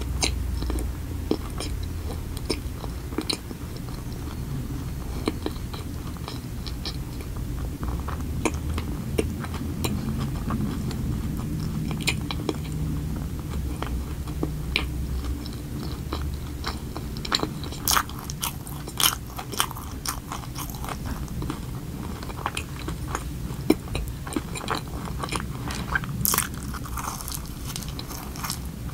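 Close-miked chewing of a soft glazed donut, with many short, sharp mouth clicks that come more often and louder in the second half.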